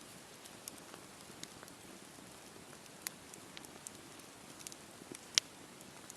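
Wood campfire burning: a steady hiss with scattered crackles, and sharper pops about three and five seconds in.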